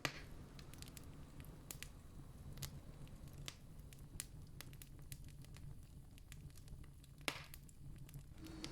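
Campfire crackling: scattered small pops and snaps of burning wood, with two louder pops at the start and about seven seconds in, over a low steady rumble.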